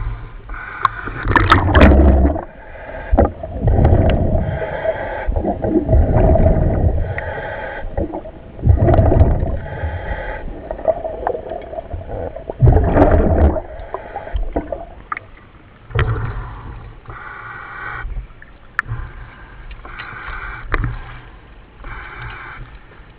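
Commercial diver breathing underwater through a helmet regulator: bubbling exhalations and hissing breaths in repeated, irregular bursts.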